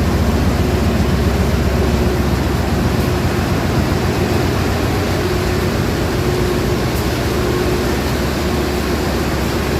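Steady hiss of heavy rain with a low, even rumble underneath.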